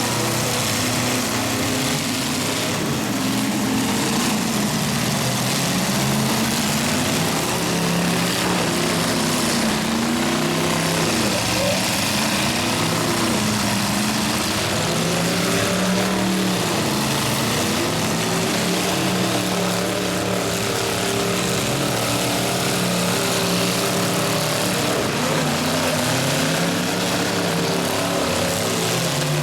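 Several demolition derby cars' engines running at once, revving up and down again and again, their pitches overlapping and shifting.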